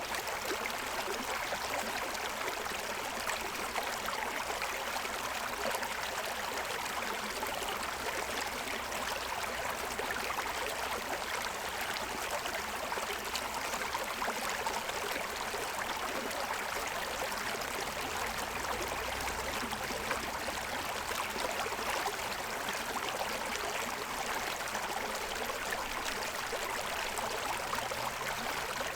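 Forest stream running over the stones of its bed: a steady, even rush of water.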